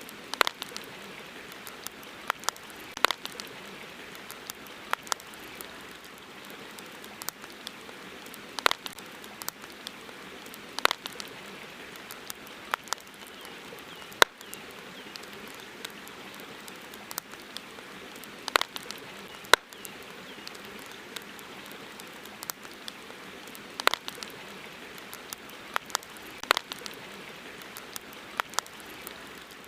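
Campfire crackling: irregular sharp pops and snaps of burning wood, some much louder than others, over a steady hiss.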